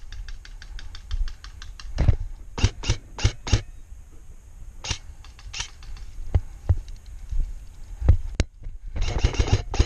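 Clicks and cracks of airsoft guns firing across the field. A quick, even run of faint shots comes in the first second and a half, then single shots and short groups follow at irregular times.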